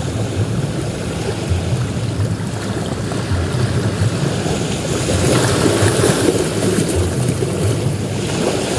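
Ocean surf breaking and washing on a beach, swelling to a louder crash about five seconds in, over a steady low rumble of wind on the microphone.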